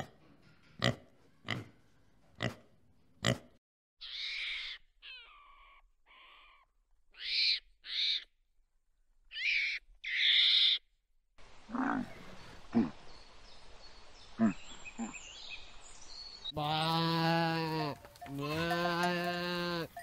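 A sequence of animal calls: a pig's short grunts about every 0.7 s, then a run of short high-pitched calls from a gray langur monkey, a few low grunts, and near the end a goat bleating twice in long, wavering bleats.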